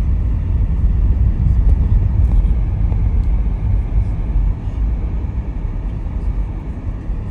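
Car driving: a steady low rumble of engine and tyre noise, easing off slightly about halfway through.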